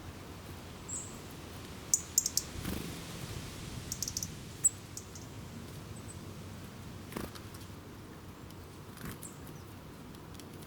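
Small birds giving short, high chirps in scattered bursts, a few at a time, with a couple of soft knocks or rustles in between.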